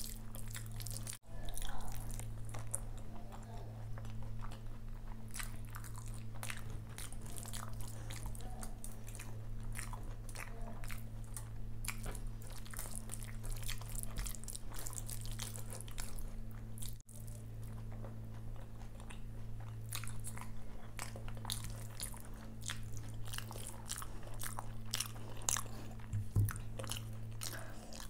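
Close-miked eating sounds: chewing, crunching and wet mouth clicks as a handful of curd rice and fried vegetables is eaten by hand, with the squish of fingers mixing the rice. A steady low hum runs underneath, and the sound drops out for an instant twice.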